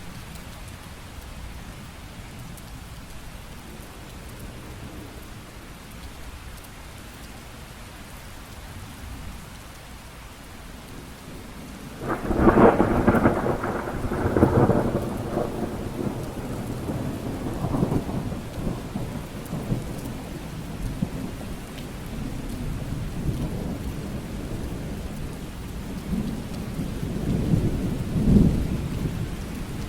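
Steady rain falling, with a sudden thunderclap about twelve seconds in that rolls and rumbles on for several seconds, and another roll of thunder near the end.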